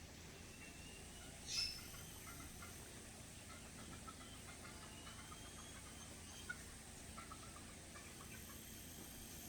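Faint bird calls, with one short, louder high call about one and a half seconds in.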